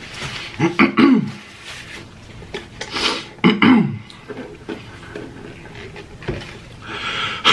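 Close-miked eating sounds: chewing and handling of food and utensils. Two short, loud, hummed mouth sounds come about a second and three and a half seconds in.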